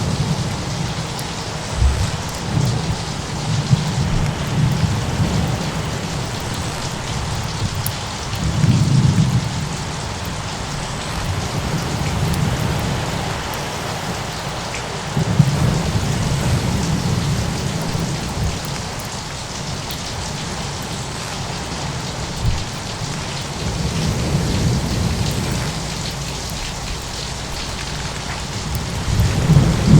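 Thunderstorm ambience: a steady wash of heavy rain with low thunder rumbling in several times, and a few scattered sharp pops like a crackling fireplace.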